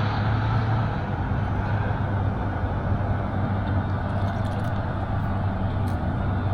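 Steady low mechanical hum over a noisy rumble, unchanging throughout, with a few faint clicks.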